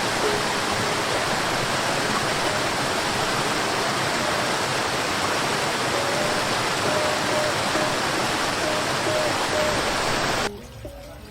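Waterfall's rushing water, a loud steady noise that cuts off suddenly near the end, with faint music underneath.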